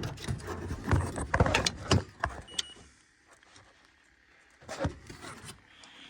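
Clicks, knocks and clatter of hands and tools working on the equipment, busiest in the first two seconds, then quiet, with a couple more knocks near the end. A short faint high beep sounds about halfway through.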